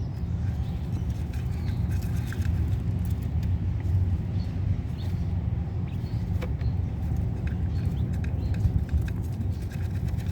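Faint short bird chirps now and then over a steady low rumble.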